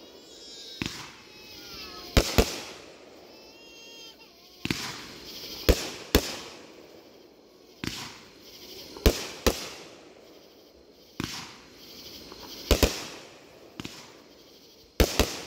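Aerial fireworks being launched and bursting overhead: a string of about a dozen sharp bangs, some in quick pairs, each trailing off in a short echo.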